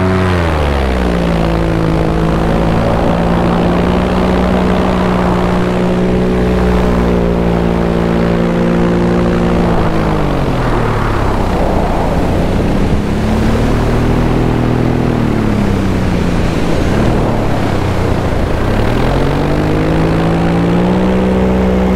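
Paramotor engine and propeller running in flight, with a constant rush of wind. The throttle is eased back near the start, held steady, cut back further about ten seconds in, then brought up again near the end.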